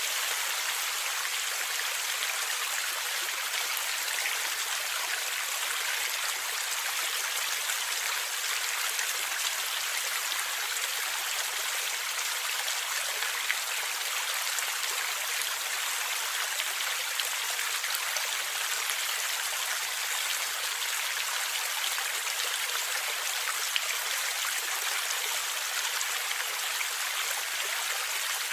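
A stream of water flowing and gurgling steadily, a continuous rushing hiss with little low rumble and a few brief louder pops.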